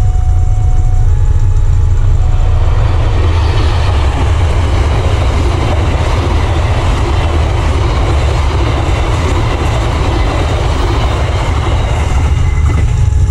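Passenger train passing over a level crossing: the rumble and clatter of the carriages on the rails, building about three seconds in and fading near the end. The crossing's electronic warning chime sounds at the start and is then covered by the train.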